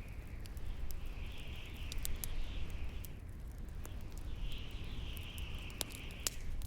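Bonfire crackling with frequent sharp pops over a low rumble, while a whistling wind howl swells up and fades away twice.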